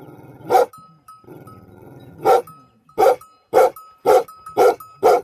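A dog barking: two single barks, then a run of five quicker barks at about two a second. A low continuous growl-like rumble sounds between the barks.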